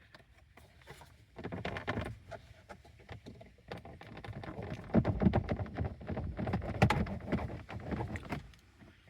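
Plastic dashboard trim being worked loose by hand: irregular rubbing, knocking and small clicks of plastic parts, in a short spell about a second and a half in and a longer, louder one from about four seconds to past eight seconds.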